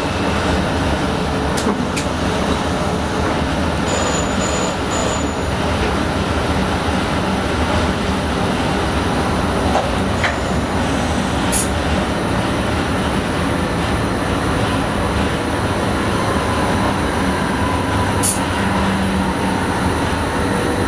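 Electric Sprinter commuter train running along the line, heard from inside the driver's cab: a steady rolling and running noise with a few faint clicks. Three short high beeps come about four seconds in.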